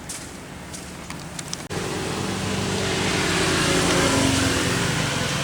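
A few light ticks, then, after an abrupt cut, a louder steady engine-like hum that swells toward the middle and eases a little.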